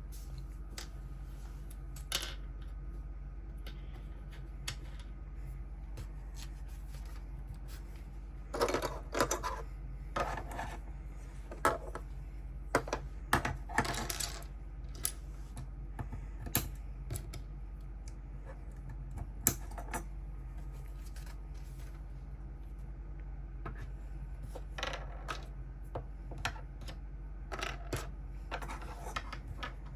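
Small hard plastic Lego pieces and packaging handled: scattered light clicks and clatters, with a couple of longer rustling stretches about a third and halfway through, over a steady low hum.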